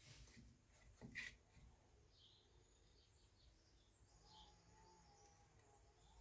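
Near silence with faint bird chirps a few times and a brief click about a second in.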